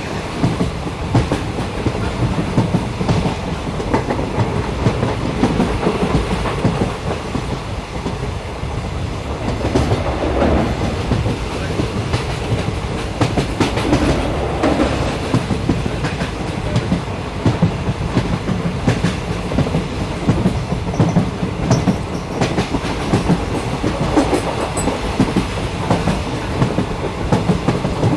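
Train running along the track, heard from inside a carriage: a steady rumble with clickety-clack of the wheels over the rails.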